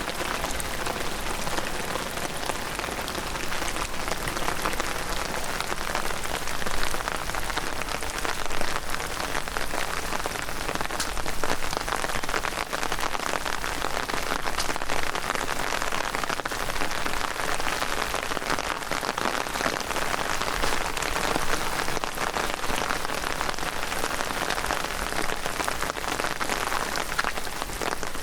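Heavy rain falling: a dense, steady patter of raindrops.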